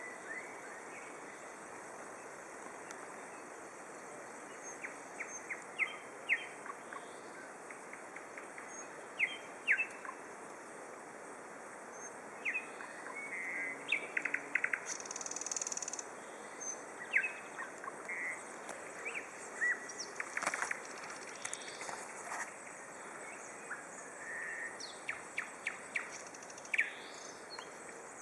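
Songbirds singing: scattered short chirps and quick downward-sliding whistled notes, with a denser run of rapid repeated notes a little past the middle, over a steady faint outdoor hiss.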